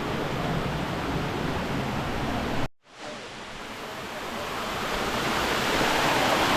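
Steady rushing of river water. It breaks off abruptly for a moment about two and a half seconds in, then comes back and grows steadily louder.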